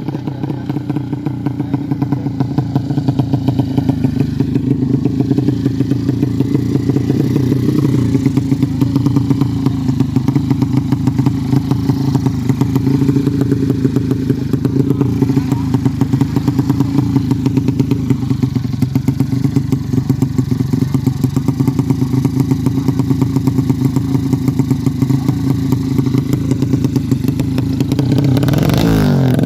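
Yamaha Jupiter-based 200cc single-cylinder four-stroke drag-bike engine on a PWK Sudco 33 carburettor, idling with an even pulsing beat while its carburettor setting is tuned, then revving up near the end.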